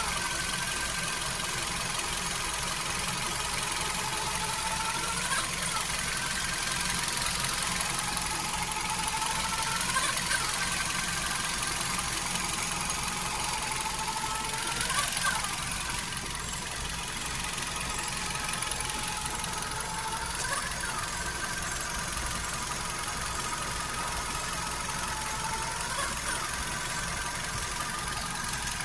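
Hyundai HB20 engine idling with a high squealing whine that slowly falls in pitch and jumps back up about every five seconds. The owner does not know its cause and suspects the timing belt, the power steering pump or a bearing.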